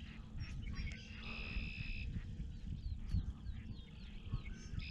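Birds calling over the lake: a held buzzy trilled note about a second long, heard twice, with a few short falling chirps in between, over a low rumble.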